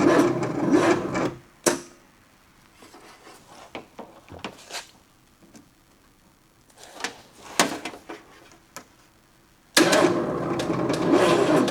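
Starter motor cranking the 1984 Chevrolet S10 Blazer's 2.8 V6 in two short bursts of about two seconds, one at the start and one near the end, with scattered clicks and knocks in between. The starter is laboring on a dead battery helped by a jump pack.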